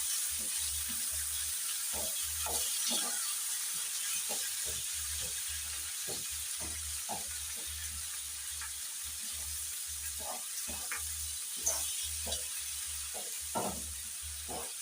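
Chicken gizzards and tomatoes sizzling in a pan: a steady hiss with scattered small crackles as the tomatoes cook down.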